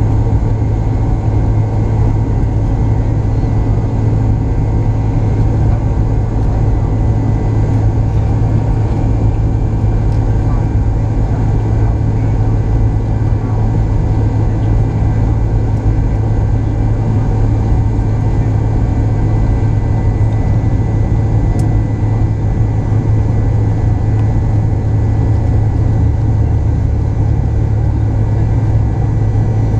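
McDonnell Douglas MD-88 airliner with its rear-mounted Pratt & Whitney JT8D-200 turbofans running at low power, a steady deep hum with a faint high whine that holds level and pitch, not yet spooling up for takeoff.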